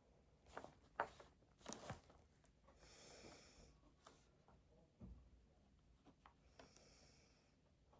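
Quiet desk-work sounds: a few light clicks and knocks, and twice a short soft swish like paper being handled.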